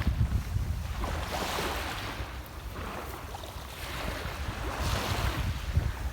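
Sea waves washing onto the shore, the hiss of the surf swelling twice, with wind rumbling on the microphone underneath.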